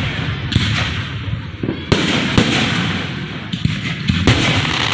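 Aerial fireworks display bursting close by: a loud bang about half a second in, two more near two seconds, another just past four seconds, with a continuous crackling in between.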